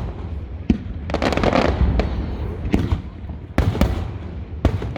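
Fireworks display: aerial shells bursting in a string of sharp bangs at uneven intervals over a constant low rumble, with a burst of crackling a little over a second in.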